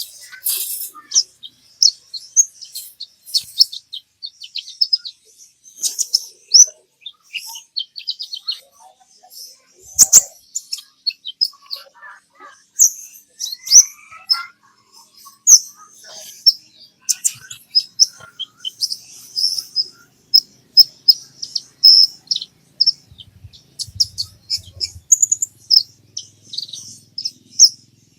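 Olive-backed sunbird (kolibri ninja) singing: rapid, high-pitched chirps and short trills in dense bursts with brief gaps.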